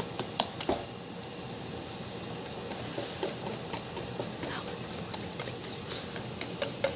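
Parchment paper crinkling and rustling as it is fitted into a cake pan: a scatter of irregular sharp crackles and clicks.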